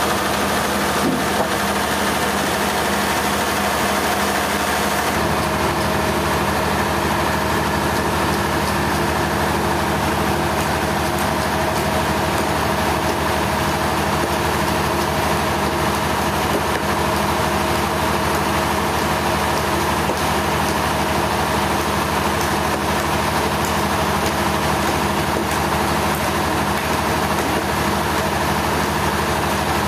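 Sawmill machinery engine running steadily, with a slight shift in tone about five seconds in.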